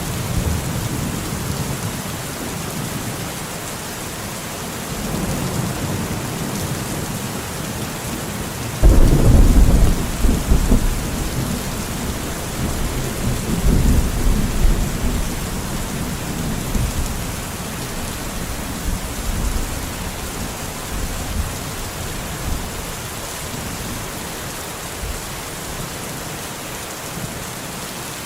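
Steady rain falling with rolling thunder. The loudest rumble breaks in suddenly about nine seconds in, with softer rumbles a few seconds before and after it.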